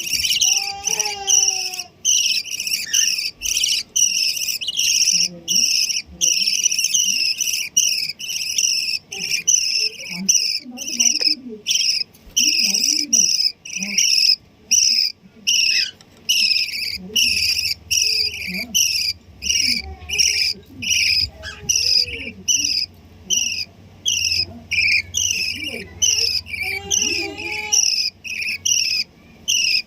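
Bird chicks chirping without pause, a rapid series of short, high, downward-sliding chirps about two to three a second, typical of nestlings begging for food.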